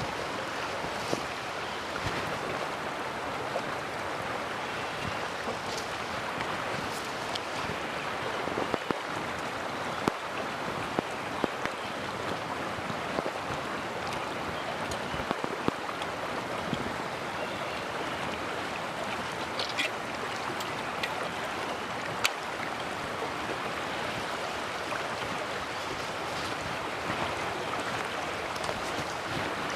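Mountain stream running steadily, an even rush of water, with scattered short sharp clicks over it.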